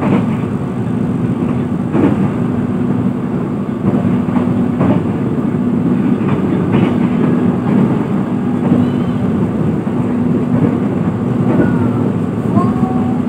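Passenger train in motion heard from inside the carriage: a steady rumble of wheels on the track with a constant low hum, broken by a few sharp knocks as the wheels cross rail joints.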